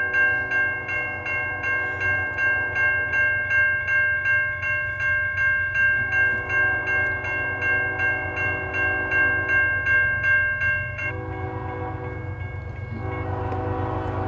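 Electronic railroad-crossing bells dinging steadily, about two strikes a second, while a diesel locomotive horn sounds in long blasts as the freight approaches. The bells cut off about eleven seconds in; the horn keeps blowing.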